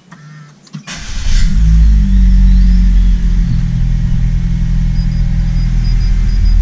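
Car engine starting: a short whir, a burst about a second in, then it settles into a steady idle with a heavy low rumble. A faint, rapid high beeping from a dashboard chime begins about five seconds in.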